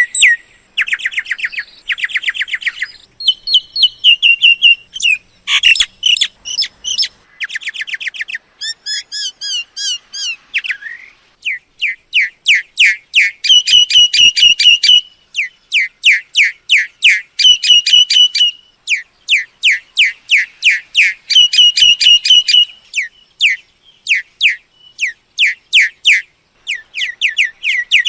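Myna calls: a continuous run of loud chattering phrases, each a fast string of sharp repeated notes or whistles lasting a second or two, one after another.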